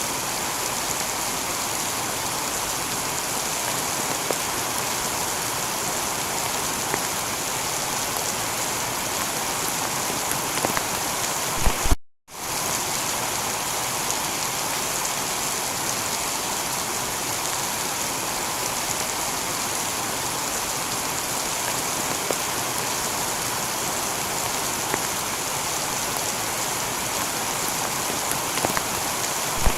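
Steady heavy rain pattering on a tiled roof. A few sharp drips tick through it. About twelve seconds in it cuts out abruptly for a split second, then resumes.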